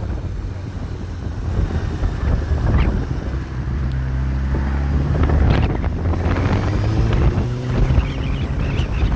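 A large engine, most likely the backhoe's diesel, running and revving, its pitch rising for a couple of seconds about halfway through, with some light clatter over it.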